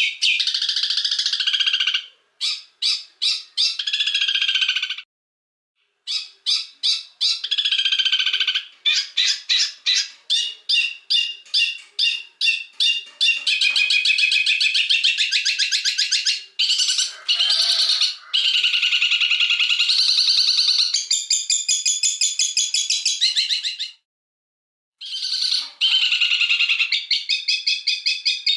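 Recorded songbird song mixed for bird tutoring (masteran): fast, harsh and sharp chattering, with rapid trills and quickly repeated high notes. It breaks off twice into dead silence for about a second, where the edited song segments join.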